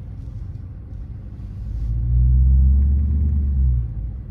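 Dodge Charger R/T's V8 exhaust with the mid mufflers deleted, a deep rumble that swells louder for a couple of seconds under throttle about two seconds in, then eases off shortly before the end.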